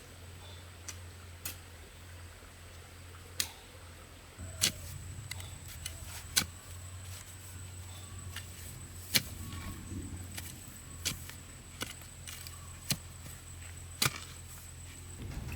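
Sharp knocks and clicks at irregular intervals, about a dozen, over a low steady hum and a faint high steady tone.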